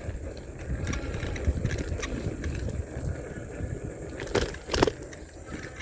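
Riding a bicycle on a paved road: a low rumble of wind on the microphone and tyre noise, with two sharp clicks a little over four seconds in.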